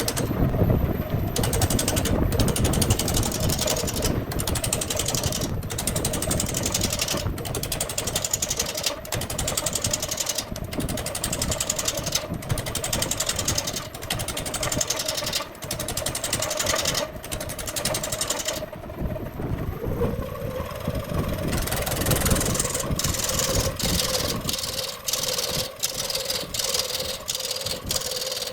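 Wood lathe running with a steady motor hum, with a hiss of the tool cutting the spinning wood broken by short regular gaps about once a second. The hum drops slightly in pitch about twenty seconds in.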